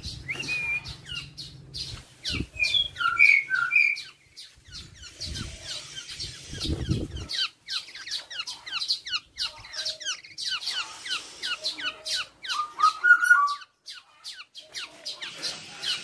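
Birds chirping: a steady run of short, quick, high chirps, with a few louder fluty whistled notes about three seconds in and again near thirteen seconds.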